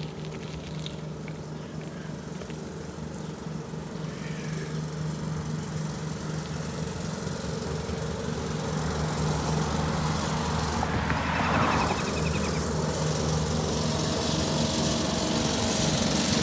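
Lawn mower engine running steadily, growing louder as the bicycle approaches.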